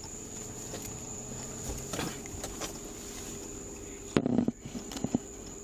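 A small locked box being opened and handled: a few light clicks, then a louder rattling clatter about four seconds in and another knock shortly after.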